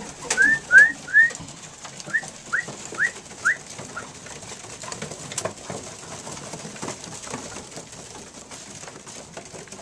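Racing homer pigeons in the loft as the flock traps in. A quick series of about seven short rising chirps comes in the first few seconds, followed by soft low bird sounds with a few sharp clicks.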